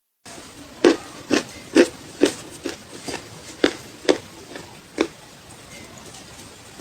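Dry clay crunching close to the microphone: a run of about ten sharp, separate crunches, roughly two a second, that thins out and stops a little past the middle.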